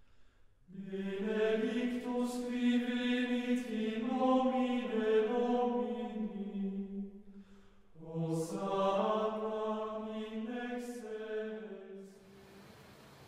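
Chanted singing in two long phrases of slow, held notes: the first ends about seven seconds in, and the second starts a second later and dies away near the end.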